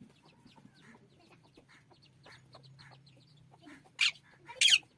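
A parrot making faint short chattering calls, then two loud harsh squawks in quick succession near the end.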